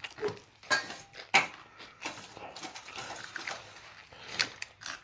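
Eating sounds: irregular chewing and mouth noises with a few sharp clicks.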